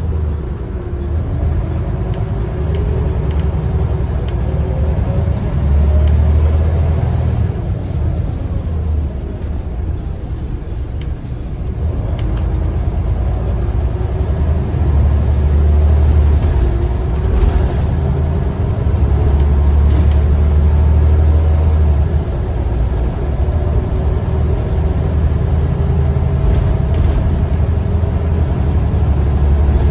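Scania L94UB single-deck bus's diesel engine and drivetrain running under way, a heavy low rumble. The engine note rises and falls as it pulls away and changes gear, easing off for a few seconds about a third of the way in, then building again and staying loud.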